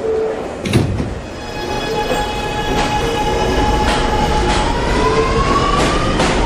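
Subway train pulling away: a short chime tone and a knock at the start, then the electric traction motors' steady whine, which rises in pitch near the end as the train speeds up, with occasional wheel clicks over rail joints.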